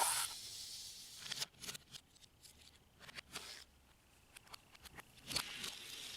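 A sharp clack at the start, then scattered light clicks and taps of die-cast toy cars and plastic track being handled.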